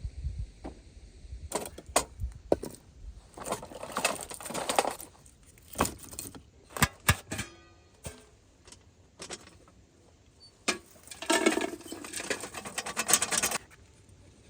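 Metal objects being handled: sharp clicks and two spells of jangling, clinking rattles, with one brief ringing tone in between.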